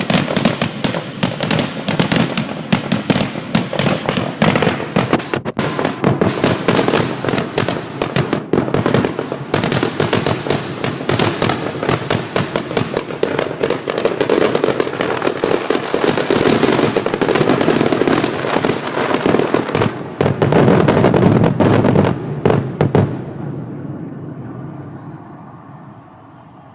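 Fireworks finale: a rapid, dense barrage of bangs and crackles that stops about 23 seconds in, then fades out.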